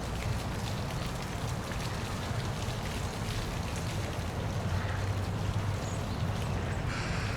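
Steady rush of falling water from a park waterfall, with a constant low rumble underneath.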